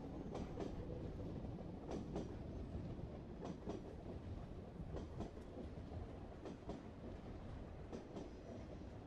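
Passenger train running, heard from inside the carriage: a steady low rumble with irregular clicks of the wheels over rail joints.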